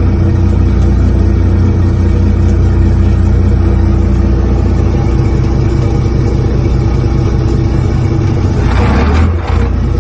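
A yacht's Volvo Penta IPS 600 pod-drive diesel engines running steadily, with a short rush of louder noise about nine seconds in.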